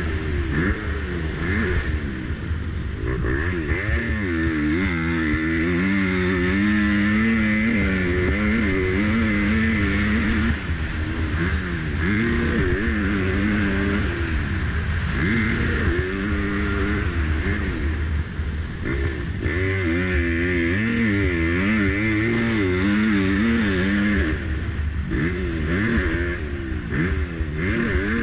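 Motocross dirt bike engine, heard from the rider's helmet camera, revving up and easing off again and again through the turns and straights of a lap, its pitch rising and falling.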